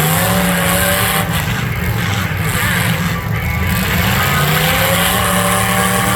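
Demolition derby cars' engines running loud and revving, the pitch rising and falling, over a dense wash of engine and arena noise.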